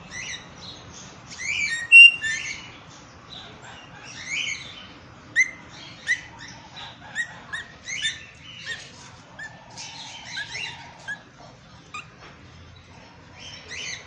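Caged birds in an aviary chirping and calling: many short, high chirps and whistles at irregular intervals, the loudest about two seconds in.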